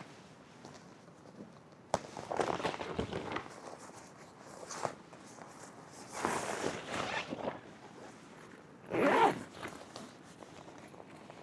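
A sharp click, then three short bursts of rasping, rustling handling noise.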